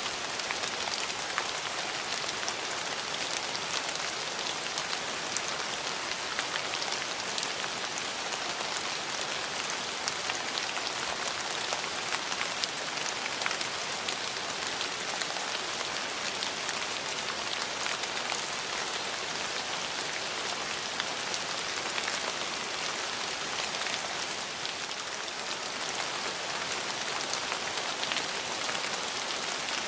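Steady rain falling on hard surfaces: a continuous hiss full of fine, close drop ticks.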